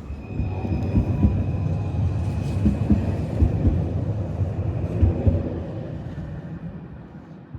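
Roslagsbanan narrow-gauge electric train passing close: a loud low rumble with irregular knocks and a thin steady high whine, fading away near the end.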